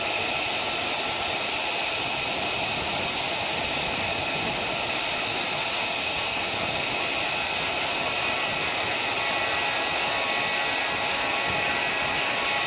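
Jet engine running steadily: an even rushing noise with several high, steady whining tones over it.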